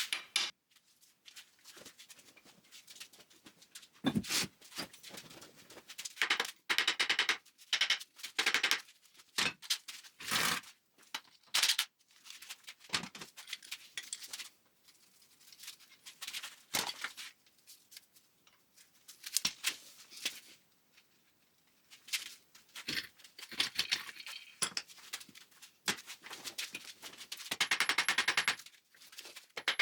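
Hand tools and steel parts of a VW Beetle front beam being worked on: irregular clanks, clicks and scrapes of metal on metal, some ringing briefly, with a longer run of rapid scraping clicks near the end.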